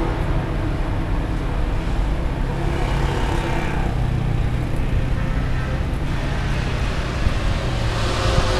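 Steady low rumble of a running vehicle engine amid outdoor background noise.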